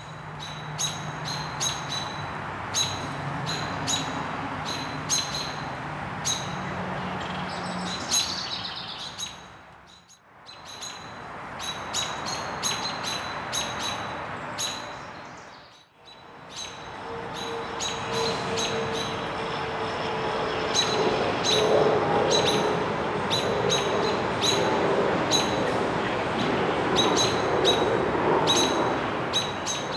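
Birds chirping with short, sharp calls repeated a few times a second over steady background noise. The sound briefly fades out twice, about ten and sixteen seconds in.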